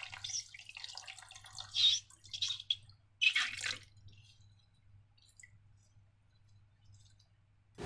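Slime squelching wetly as it is handled: a few short squishes in the first four seconds, then almost quiet.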